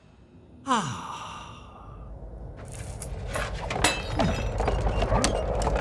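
Cartoon sound effects: a sudden falling whistle-like glide about a second in, then a run of crashing and clattering with many sharp cracks.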